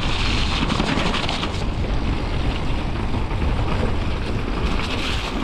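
Mountain bike riding down a wet, rough trail: wind buffeting the microphone and tyres rumbling over the ground, with a patter of rattling clicks from the bike in the first second or two.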